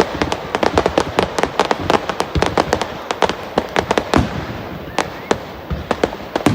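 Fireworks crackling with rapid, irregular sharp pops, several a second. The pops thin out a little after about four seconds.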